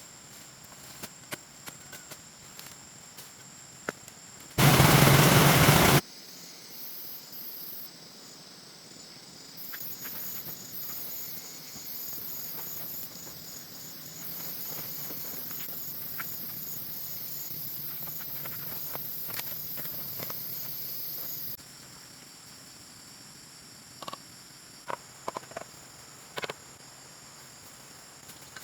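Insects trilling in the countryside: a high, steady buzz with a fast even pulse that swells up several seconds in and stops abruptly later, over small scattered clicks. About five seconds in, a loud rush of noise lasts about a second and a half.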